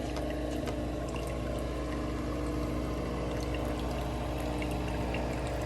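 Nespresso Vertuo Next coffee machine running steadily, its motor humming while liquid pours into the cup.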